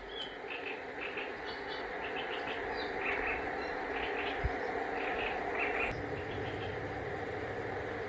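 Small birds chirping in short, repeated bursts over a steady background hiss of open-air ambience, with a brief low thump about halfway through.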